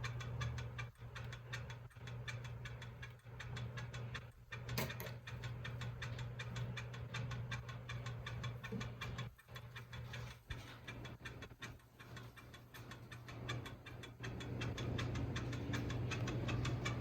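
32-inch Hampton Bay Minuet II ceiling fan running, with a steady low motor hum and a fast, even ticking.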